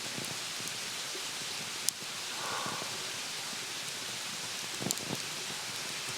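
Campfire burning with a steady hiss and a few sharp crackles and pops.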